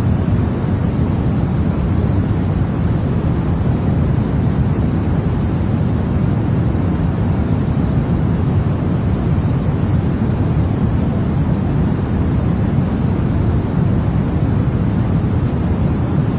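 Continuous baby-sleep 'white noise': a steady, deep hiss weighted to the low end, with little treble, that never changes.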